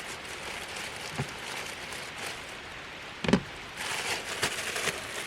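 A thump about three seconds in, then crinkling and rustling of the plastic bag of hot dog buns being handled and opened, over a steady hiss.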